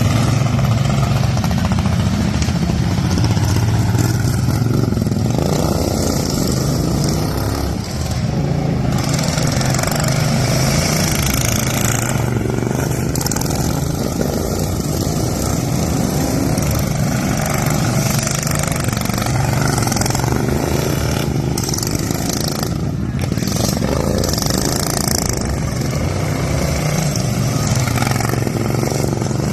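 Racing lawn tractor engines running at high revs, several at once, the sound rising and falling as they pass, steady and loud throughout.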